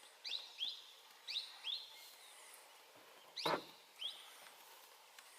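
A bird calling over and over in short rising chirps, often in pairs, over a faint outdoor background, with one sharp knock about three and a half seconds in.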